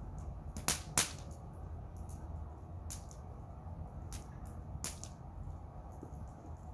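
Wood campfire crackling, with sharp pops: two loud ones close together about a second in and a few fainter ones later, over a low steady rumble.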